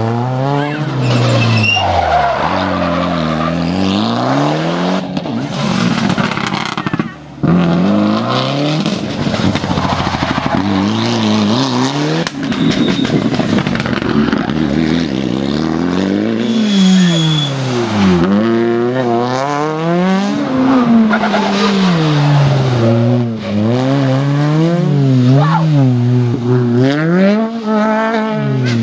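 World Rally Cars' turbocharged four-cylinder engines revving hard, the pitch climbing and falling again and again through gear changes and lifts. The sound breaks off briefly about seven seconds in.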